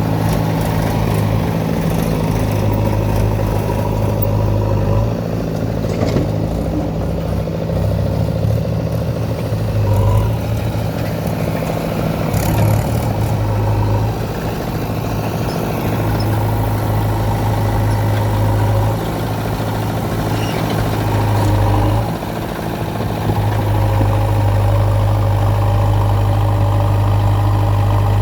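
Heavy diesel earth-moving machinery, a JCB 3DX backhoe loader and tractors, running steadily. The low engine hum shifts in pitch and level a few times.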